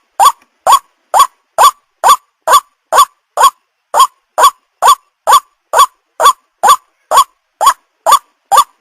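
White-breasted waterhen (ruak-ruak) call played as a hunting lure: a short, rising, honking note repeated evenly, a little over twice a second.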